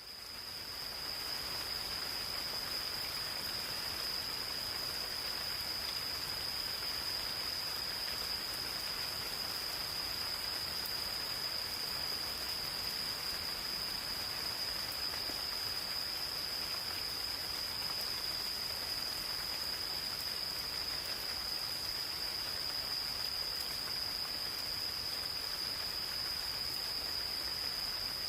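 Light rain falling steadily in a forest, a fine haze of drops pattering on leaves. Over it, an insect gives one continuous high trill that never changes pitch. The sound fades in at the start.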